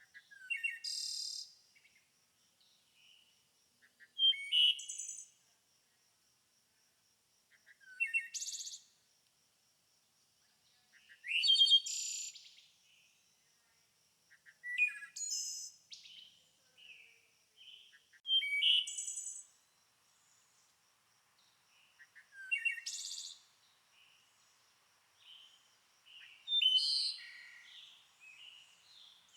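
A songbird singing short, high-pitched phrases of about a second each, repeated every three to four seconds, over a faint steady high whine.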